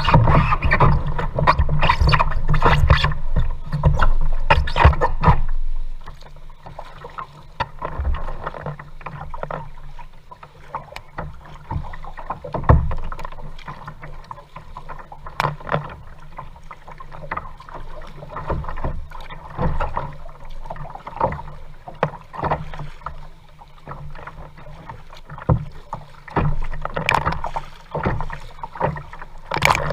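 Kayak being paddled: irregular splashes and knocks of the paddle and water against the hull, louder with a low rumble for about the first six seconds, then quieter and more scattered.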